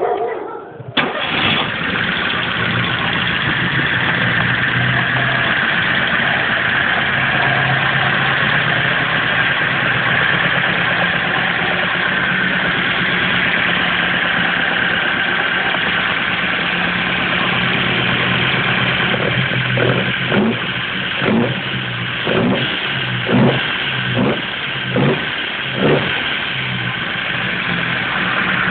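Lada 1300 cc inline-four engine catching about a second in, then running at a steady idle. From about 20 seconds in it is blipped about seven times in quick succession, each blip rising and falling in pitch.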